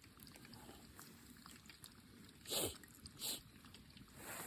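Two short animal calls, about two and a half and three seconds in, the first sliding down in pitch and the second shorter.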